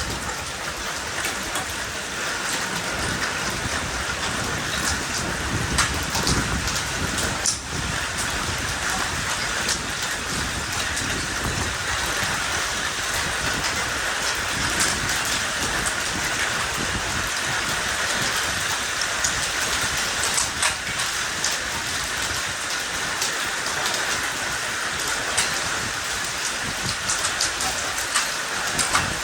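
Heavy storm rain pouring down steadily, with scattered sharp ticks of impacts on hard surfaces.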